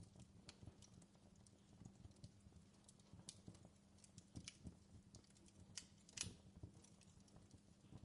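Campfire crackling faintly, with irregular sharp pops and snaps; the loudest snap comes a little after six seconds in.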